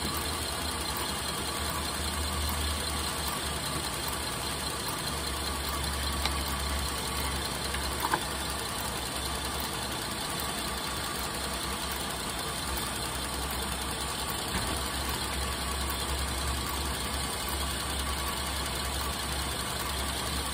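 2010 Buick Enclave's 3.6-litre V6 idling steadily under the open hood, with a couple of faint clicks about six and eight seconds in.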